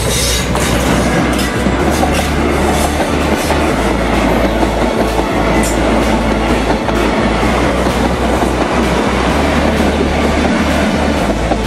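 Diesel locomotive passing close by, followed by a rake of passenger coaches whose wheels clatter over the rails in a steady rhythm.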